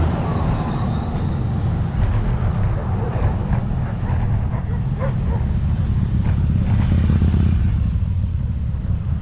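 Wind buffeting an action camera's microphone while cycling: a steady low rumble.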